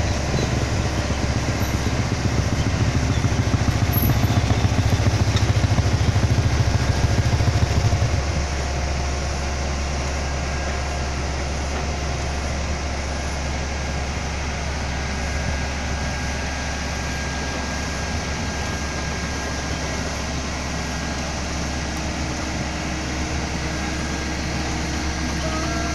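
Engine of heavy road-construction machinery running steadily. It is louder, with a deep rumble, for the first eight seconds, then eases to a lower, even running sound.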